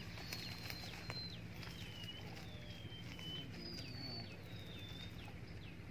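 A bird calling: a faint series of thin, high whistles, each sliding down in pitch, one after another throughout.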